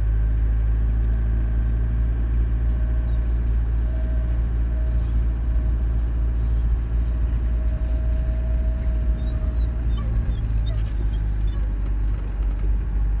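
Camper van driving on a dirt and gravel track, heard from inside the cab: a steady low engine and road rumble, with a faint held whine that comes and goes midway and a few small ticks.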